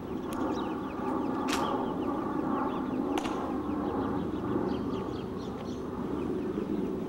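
Birds chirping faintly over a low, steady background hum, with three sharp clicks or snaps, about half a second, a second and a half, and three seconds in.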